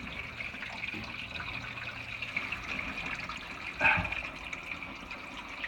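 Steady hiss of shower water draining through the drain pipe under the house, with one short, louder knock-like sound about four seconds in.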